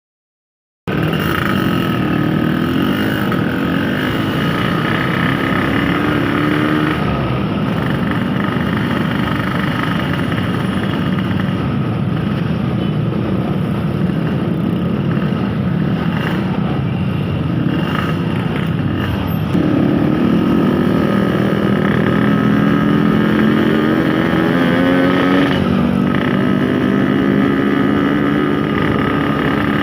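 Yamaha RX-King's 135cc two-stroke single-cylinder engine running under way, its pitch rising and falling with the throttle and gear changes. It starts after about a second of silence, and from about two-thirds of the way through it gets louder, with the pitch climbing as the bike accelerates.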